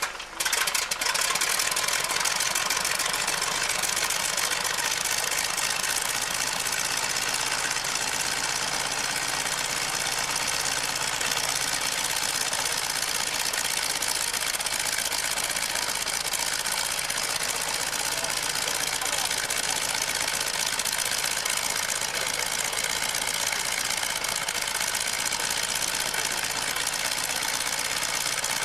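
An engine running steadily at constant speed, loud and close, with no change in pitch.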